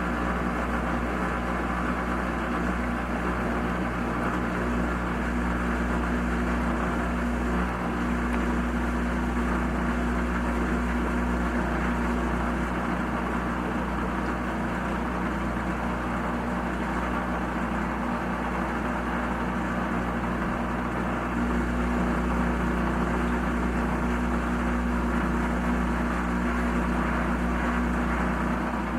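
Washing machine running with a steady motor hum over a low rumble.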